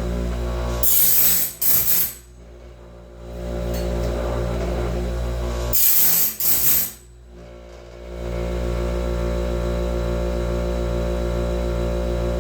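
DIY bandsaw band sharpener running with a steady motor hum. Twice, about a second in and again about six seconds in, the grinding wheel meets a tooth with a loud, harsh grinding noise lasting about a second, and the hum briefly drops after each one.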